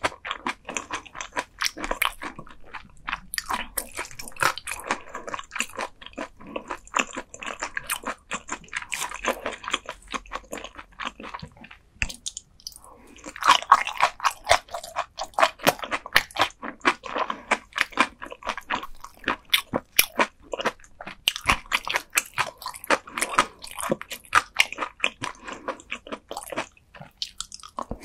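Close-miked biting and chewing of raw gizzard shad eaten bones and all: a dense, continuous run of crisp crunches. A brief pause comes about twelve seconds in, then a fresh bite brings a louder burst of crunching.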